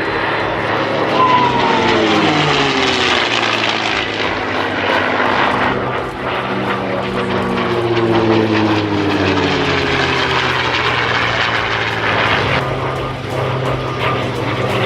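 P-51 Mustang's Packard Merlin V12 engine running in a flying display, its pitch falling each time it sweeps past, twice.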